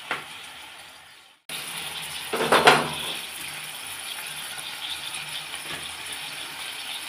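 Pork and vegetable curry sizzling and simmering in a wok, a steady hiss, with a brief loud scraping clatter about two and a half seconds in.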